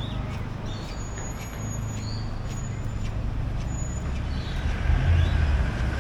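Street traffic: vehicle engines and tyres rumbling, with a heavier vehicle growing louder near the end.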